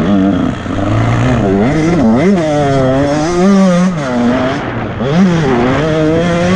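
Motocross bike engine revving up and down several times, its pitch climbing and dropping as the throttle is opened and closed between shifts.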